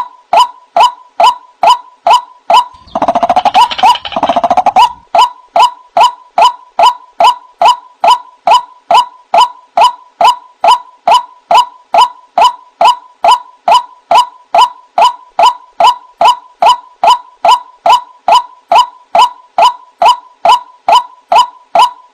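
White-breasted waterhen (ruak-ruak) calling, a short note repeated monotonously about two and a half times a second, played as a bird-trapping lure call. About three seconds in, a harsh, noisy burst of about two seconds rises over the calls.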